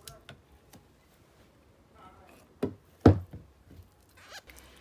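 Two dull knocks about half a second apart, the second one louder, over quiet room tone.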